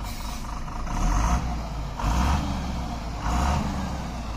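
Truck engine running with a steady low rumble, overlaid by a loud, noisy surge that repeats about once a second.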